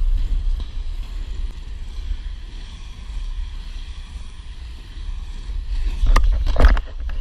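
Wind buffeting an action camera's microphone over the hiss of inline skate wheels rolling on wet pavement. A quick cluster of sharp clacks comes about six seconds in.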